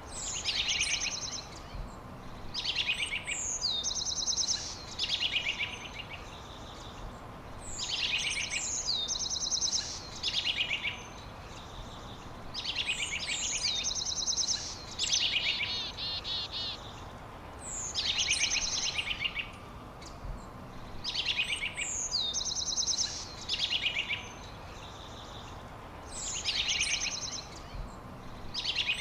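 A songbird repeating the same short, high song phrase every two to three seconds, each a quick falling note followed by a fast trill, over a steady background hiss.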